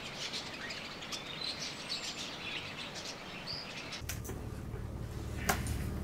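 Songbirds chirping over a faint outdoor hiss. About four seconds in the birds give way to a steady low hum, with a couple of sharp clicks.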